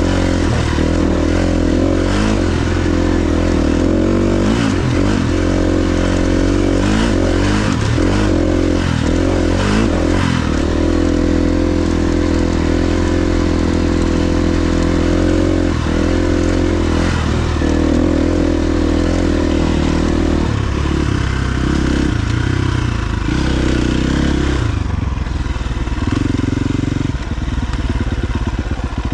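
KTM 350 XC-F's single-cylinder four-stroke engine running as the dirt bike is ridden, its pitch rising and falling with the throttle; the engine note drops lower and less steady about two-thirds of the way through.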